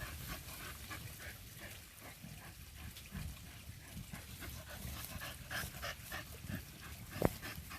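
A dog digging into an animal's burrow, with short scratchy sounds of paws and snout working the dirt, and one sharper knock about seven seconds in.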